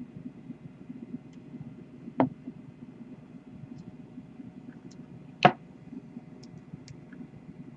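Two sharp clicks about three seconds apart, the second louder, over a low steady hum, with a few faint ticks.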